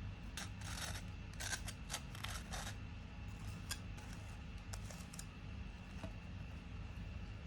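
Household handling sounds: a quick run of short rasping strokes over about two seconds, then a few light clicks, over a steady low hum.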